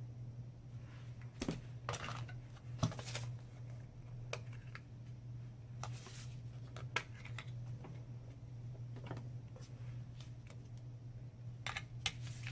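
Scattered light clicks and brief rustles of hands handling and styling a synthetic wig, over a steady low hum.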